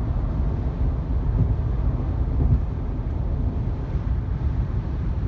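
Honda Odyssey minivan driving at road speed: a steady low rumble of tyres, engine and wind.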